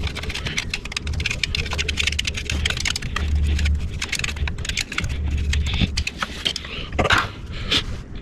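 Hand ratchet clicking rapidly as bolts are turned on the engine, with a few louder metal knocks near the end over an on-off low hum.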